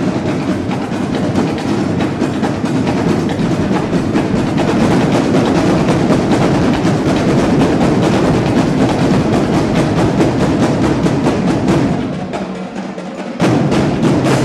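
Drum section playing a fast, driving cadence of rapid drum and stick strikes. It drops quieter shortly before the end, comes back loud for a final phrase, and stops.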